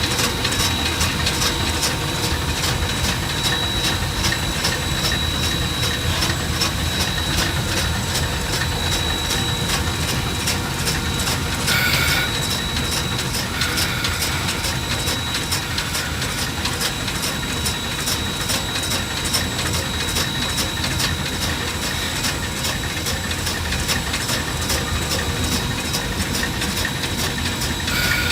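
Shay geared steam locomotive running, heard from inside its cab: steady mechanical clatter with a rapid even beat, a steady high whine throughout, and a brief higher tone about twelve seconds in and again near the end.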